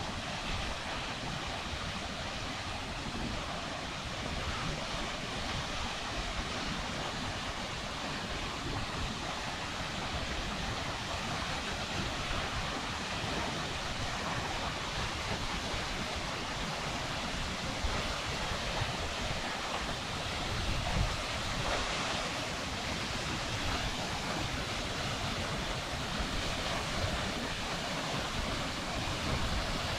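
Steady rush of a waterfall, with gusts of wind rumbling on the microphone.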